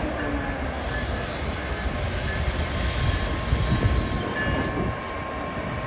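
Coaster commuter train running through the station: a steady rumble of the diesel-hauled rail cars, with a thin steady whine that sets in about halfway through.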